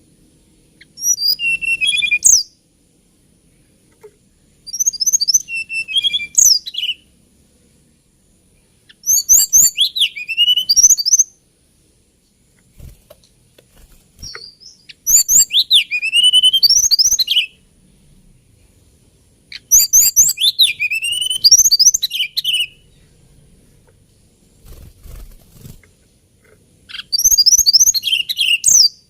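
Hill blue flycatcher (Cyornis banyumas) singing. It gives six short phrases of quick, high, lilting warbling notes, each lasting one to three seconds, with pauses of a few seconds between them.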